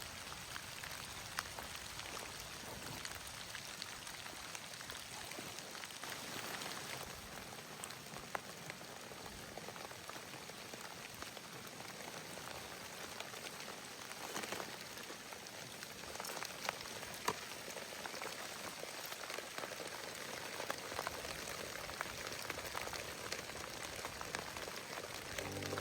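Steady rain pattering on a surface, a dense hiss of drops with scattered sharper ticks.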